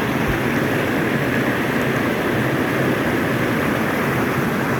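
Steady rushing of a mountain stream's water tumbling over rocks.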